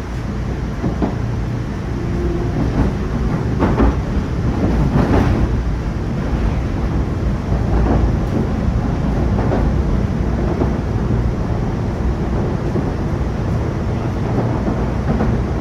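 MBTA Red Line subway car running at speed, heard from inside the car. It makes a steady low rumble with a few sharp wheel-on-rail clacks at irregular intervals.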